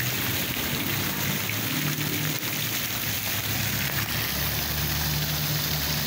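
Water fountain splashing steadily, with a low hum underneath that shifts in pitch a few times.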